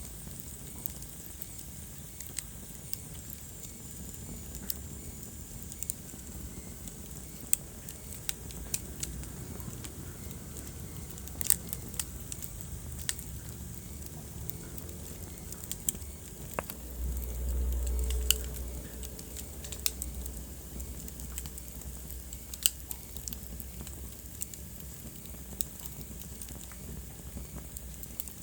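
Wood fire burning in a fireplace, crackling steadily with frequent sharp, irregular pops and snaps over a soft hiss. About two-thirds of the way in, a low rumble swells for a couple of seconds.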